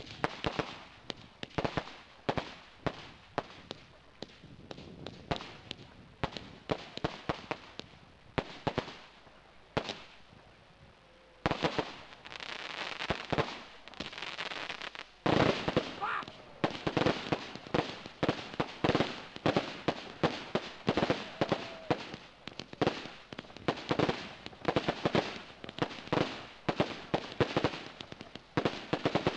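Fireworks going off: a dense run of sharp cracks and bangs from bursting shells and crackers. They thin out briefly about nine seconds in, then resume, with louder, denser bangs from about fifteen seconds in.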